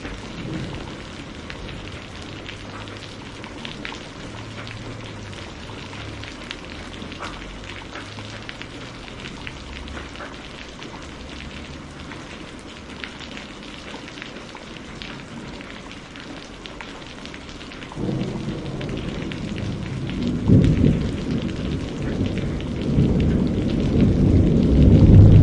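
Steady rain with scattered drops pattering. About eighteen seconds in, a low rolling rumble of thunder begins and swells, loudest near the end.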